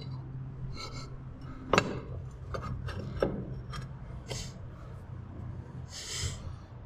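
Parts being handled and fitted by hand: a few sharp knocks and short scraping sounds over a steady low hum. The loudest knock comes a little before two seconds in.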